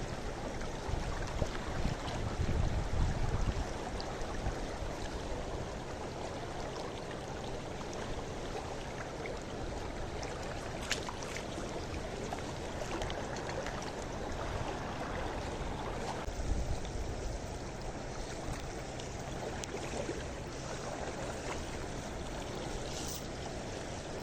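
River water flowing steadily, a constant rushing noise, with a few low bumps about two to three seconds in.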